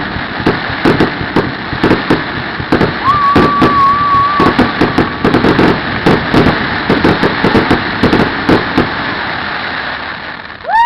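Fireworks going off in a dense run of rapid cracks and pops over a constant rumbling haze, with a steady whistle about three seconds in lasting a second and a half.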